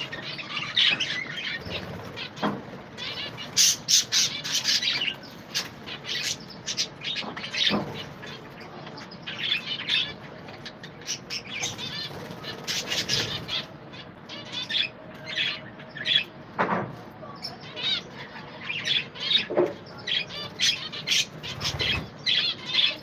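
A colony of budgerigars chattering, a dense mix of overlapping chirps and squawks, with occasional wing flapping.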